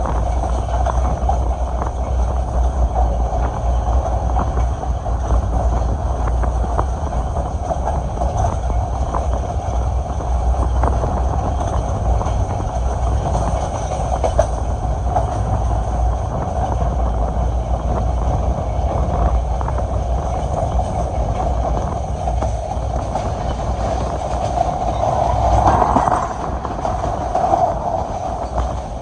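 Passenger train running along the track: a steady rumble of wheels on rail with a stream of rapid clicks, swelling briefly louder about 26 seconds in.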